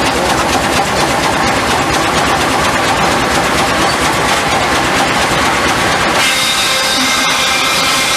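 Steam sawmill machinery running with a dense, fast, steady chug. About six seconds in the sound changes abruptly to a steady whine of several tones, typical of the saw.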